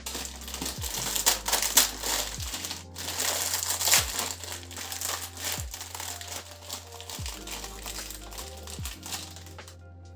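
Continuous crinkling and rustling of something being handled, over background music with a soft, regular beat.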